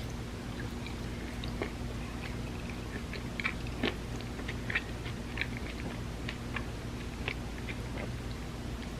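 Close-up chewing of an ice cream sandwich: irregular small wet clicks and smacks from the mouth, thickest in the middle, over a steady low hum.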